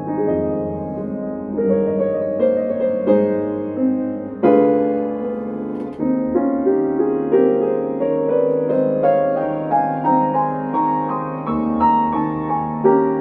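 Yamaha C5A grand piano being played, chords and melody notes struck and left to ring, with a strong chord about four and a half seconds in. The piano's tone has been rebuilt toward a Steinway sound and is being played in.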